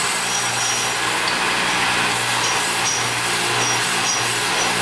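Electric power tool running steadily while metal motorcycle engine parts are polished on it. It makes a constant noise over a low hum, with no pauses.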